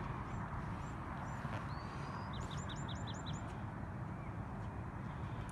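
Songbirds chirping, with short high chirps and a quick run of about six around the middle, over a steady low background rumble.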